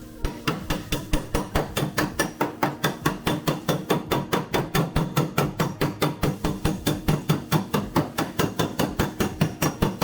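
Hand hammer blows on automotive sheet steel in a steady even rhythm, about five strikes a second, as a body panel is beaten back into shape.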